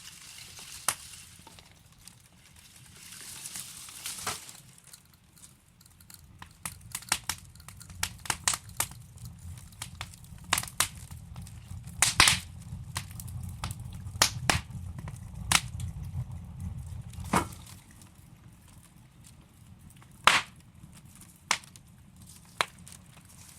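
Wood fire in a fireplace crackling, with irregular sharp pops and snaps from the burning logs. Under them runs a low rumble of flame that swells in the middle and dies down about 17 seconds in.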